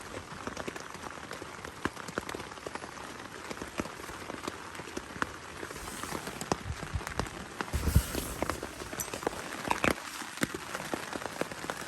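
Steady rain falling, with heavy drops striking close by as many sharp, irregular taps. A low thump about eight seconds in.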